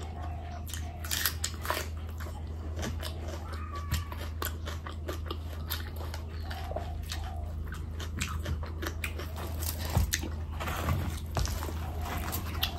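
Close-miked chewing and wet mouth sounds of a person eating curry-soaked bhatura, full of short sharp clicks and smacks, over a steady low hum.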